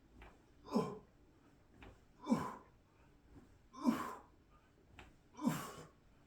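A person's forceful voiced exhales, four in all about every second and a half, each a short breathy grunt falling in pitch: the effort breaths of repeated pull-ups.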